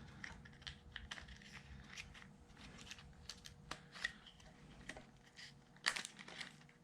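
Faint rustling, scraping and small clicks of stator wires being pulled out through a scooter engine case, with a louder clatter about six seconds in.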